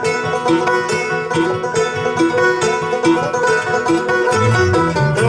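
Bluegrass band playing a song's instrumental intro: fast, even picking on plucked strings, with a bass line coming in about four seconds in.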